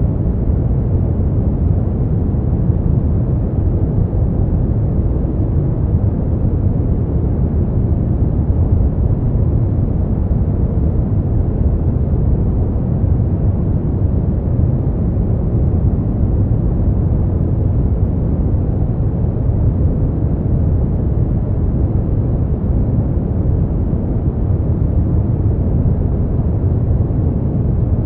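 Brown noise: a steady, even low rumbling hiss, deep and bass-heavy.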